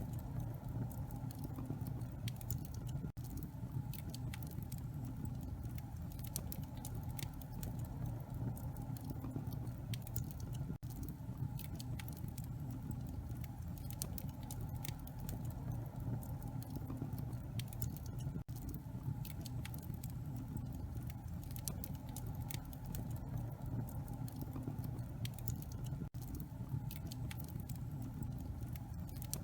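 Wood fire in a fireplace crackling: frequent sharp pops and snaps over a steady low rumble of flames.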